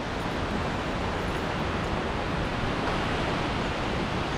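Steady rush of a waterfall heard from right beneath it, the water pouring down close by.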